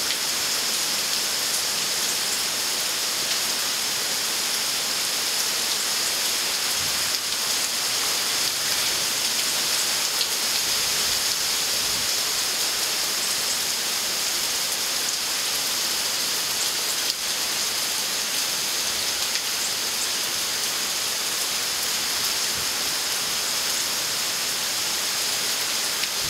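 Heavy tropical-storm rain pouring steadily onto trees, shrubs and lawn: an even, unbroken hiss.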